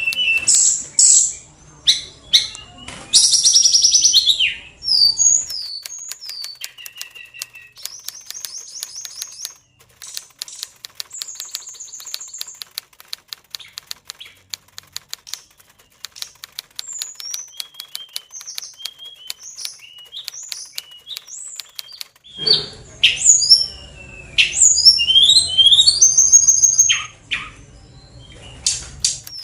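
Oriental magpie-robin (kacer) singing: loud bursts of whistles and chirps in the first few seconds and again from about two-thirds of the way in, with only scattered short calls between them. A rapid dry ticking runs under much of it.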